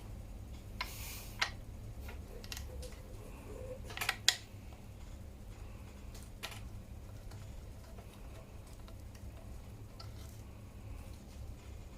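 A few scattered light metallic clicks and clinks of hand tools against bicycle crank parts during fitting of the non-drive-side crank arm. The sharpest pair comes about four seconds in, over a faint steady hum.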